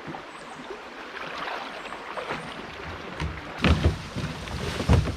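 Kayak on a fast-flowing river: a steady rush of water and wind, with a few loud knocks and splashes from the paddle and hull, a pair about three and a half seconds in and another near the end.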